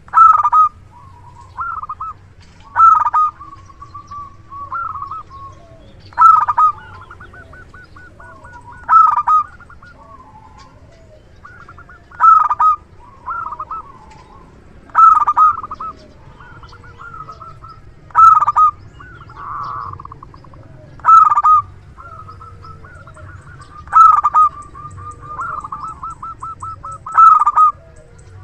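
Zebra dove (perkutut) cooing: a loud, sharp cooing phrase about every three seconds, ten in all, with softer rolling trills between them.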